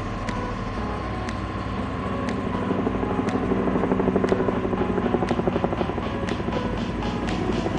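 A vehicle engine running with a fast rhythmic throb that swells in the middle and then eases off, with music underneath. Sharp ticks come about once a second.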